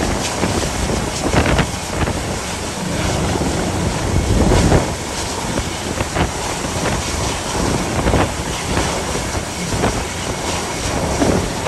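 Force 9 gale wind rushing past and buffeting the microphone in irregular gusts, over a dense, steady rush of noise.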